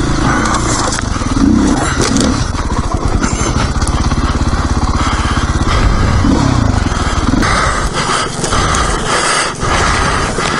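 Off-road dirt bike engine running at low revs with rapid, even firing pulses while the bike is ridden along a trail, with wind noise on the microphone. About seven and a half seconds in the engine's low pulsing drops away, as when the rider rolls off the throttle.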